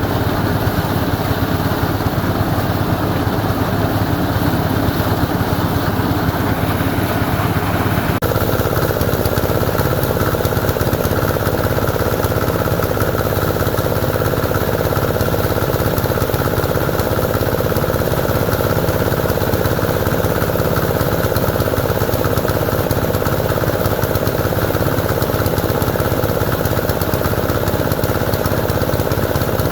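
Small engine running steadily, with a hum low in the range. Its tone changes abruptly about eight seconds in, then runs steadily again.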